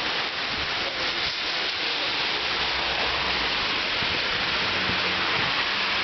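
Heavy rain pouring down steadily, a dense, even hiss with no break.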